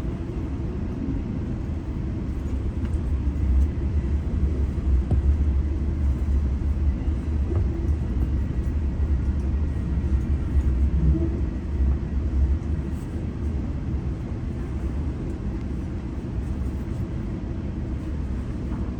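GO Transit commuter train running between stations: a steady low rumble that swells for several seconds in the middle before easing back.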